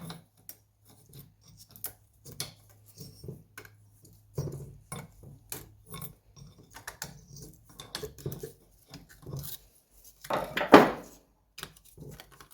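Light metallic clicks and clinks of small two-stroke engine parts being handled on a workbench, with one louder clatter about ten seconds in.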